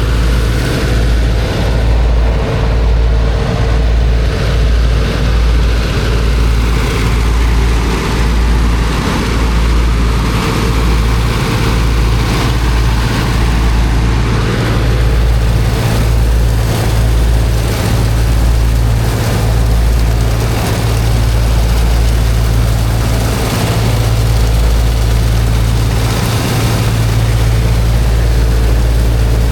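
Engine of a high-pressure water pump running steadily with a deep hum, under a continuous rushing hiss.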